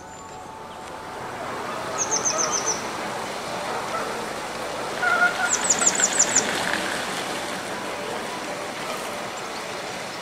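Outdoor ambience with a steady hiss and a bird's high, rapid chirping in two short bursts: about five quick notes around two seconds in, then about seven near the middle.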